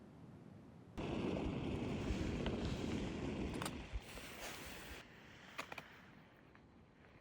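A gust of wind buffeting the microphone, starting suddenly about a second in and dying down after about four seconds, followed by a few light clicks.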